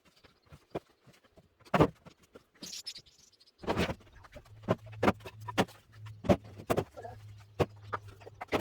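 Split oak firewood knocking and clattering as logs are handled and stacked: a run of sharp wooden knocks, with two heavier thuds about two and four seconds in.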